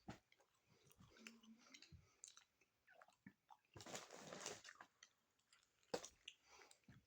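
Faint chewing and wet mouth clicks of a person eating, with a louder stretch of chewing about four seconds in.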